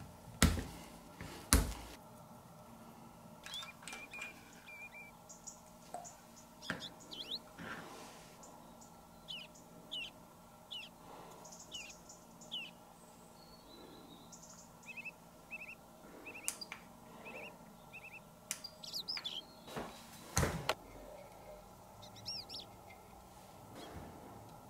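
A small bird chirping in short, quick, downward-sweeping notes, repeated many times. A few sharp clicks from tools handled on the table sound twice near the start and again about 20 seconds in; these are the loudest sounds.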